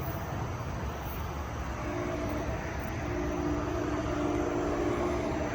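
NJ Transit passenger train running by on the Pascack Valley Line: a steady rumble with a droning hum that fades out about half a second in and returns about two seconds in.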